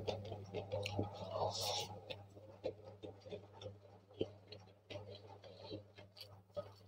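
Close-up mukbang eating sounds: chewing and small wet mouth clicks as fried rice is eaten by hand, busier in the first two seconds and then sparser. A steady low hum runs underneath.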